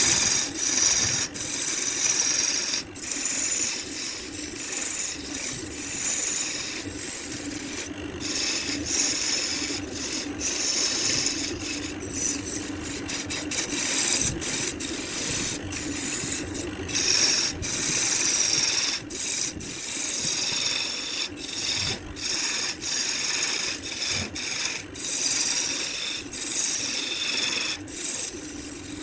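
Wood being worked on a woodturning lathe, a tool or abrasive scraping the spinning timber: a continuous scraping hiss over a steady low motor hum, broken by many brief gaps.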